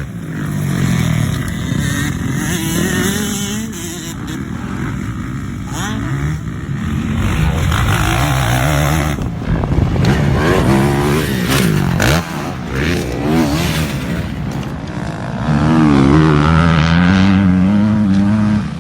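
Motocross dirt bike engines revving and running, their pitch rising and falling as the throttle opens and closes, across several clips cut together; the loudest stretch comes near the end.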